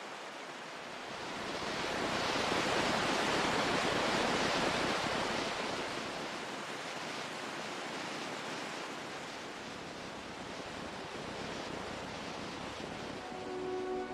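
Ocean surf: a wave surges up about a second in, peaks, then eases back into a steady rush of water.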